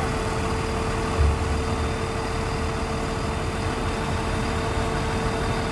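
Heavy engine idling steadily with a rumble and a steady tone, which stops shortly before the end; a brief low thump about a second in.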